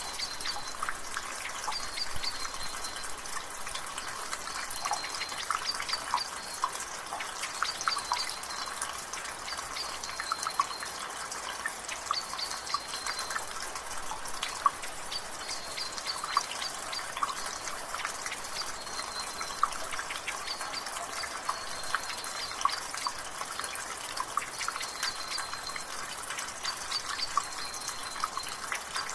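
Water dripping from a gutter in light rain: a busy, irregular patter of drips over a steady hiss of drizzle. A short, high bird call repeats every couple of seconds in the background.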